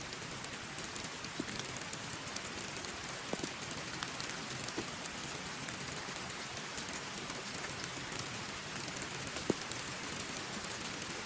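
Heavy rain falling steadily, with scattered single drops ticking sharply; the loudest drop lands about nine and a half seconds in.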